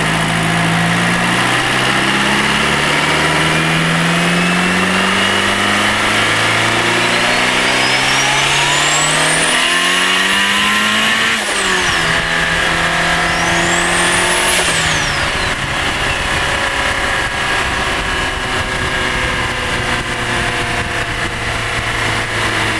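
Turbocharged Honda Integra LS-VTEC engine heard from inside the engine bay, pulling hard in stepped rises of revs while a high turbo whine climbs and then cuts off about eleven seconds in. A second short rise and fall of turbo whine follows a few seconds later, then the engine runs steadily at lower revs.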